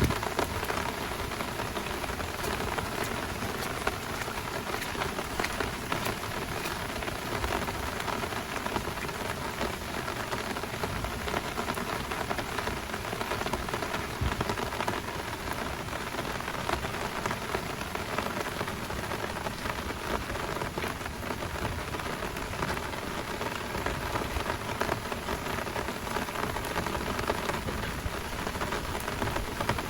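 Heavy downpour rain falling steadily, a dense hiss of many small drop hits.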